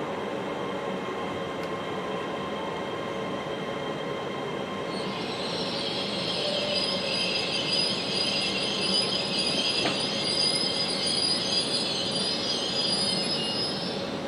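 A passenger train running into a station platform: a steady rumble, joined about five seconds in by a loud, high-pitched squeal of several tones as it brakes. The squeal holds until shortly before the end.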